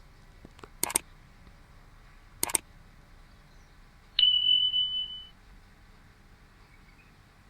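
Two short sharp clicks a second and a half apart, then a single high-pitched electronic beep held steady for about a second.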